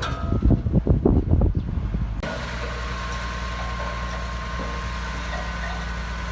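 Irregular low rumbling and buffeting, then a sudden cut about two seconds in to a heavy diesel engine of earth-moving machinery running steadily with a humming tone.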